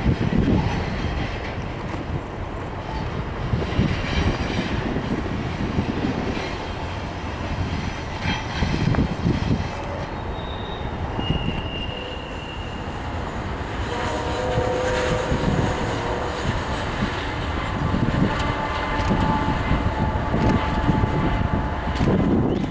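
Double-stack container freight train running through a curve: a steady rumble of wheels and cars on the rails, with high steady wheel squeal joining in over the second half.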